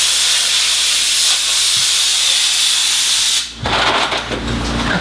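Loud, steady hiss of compressed air blowing in a club-building workshop, cutting off sharply about three and a half seconds in.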